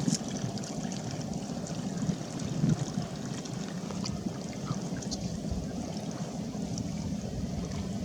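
River water lapping and trickling around a small boat, with a low steady hum underneath.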